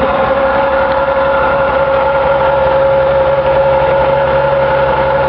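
Ferrari FF's 6.3-litre V12 idling steadily at an even pitch, with no revving.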